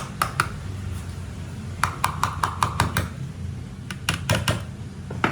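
Groups of quick, light taps that each ring briefly, as of something hard struck on metal: a few near the start, a run of about six in quick succession around the middle, and several more later. A steady low hum runs underneath.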